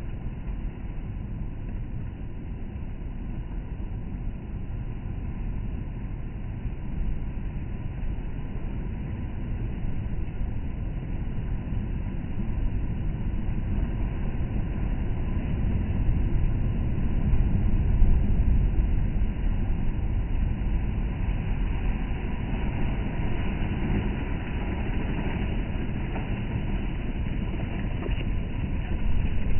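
Stormy sea: a steady low roar of waves breaking on the shore, swelling to its loudest about halfway through.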